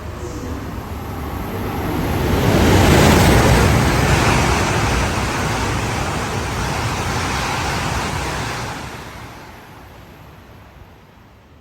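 A train passing close by: a rushing rumble that swells about two seconds in, holds, and fades away after about eight seconds.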